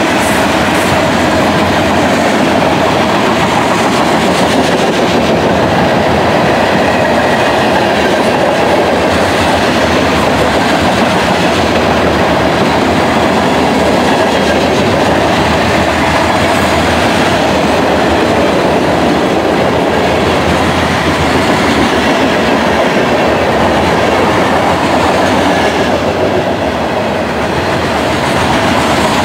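CSX freight train of covered hopper cars rolling past close by: a steady, loud rumble of steel wheels on the rails.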